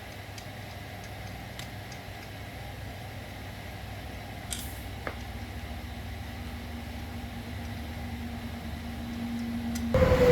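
A machine running steadily with a low hum. A faint steady tone joins about halfway, with a couple of light clicks. Just before the end a louder machine sound starts abruptly, carrying a whine.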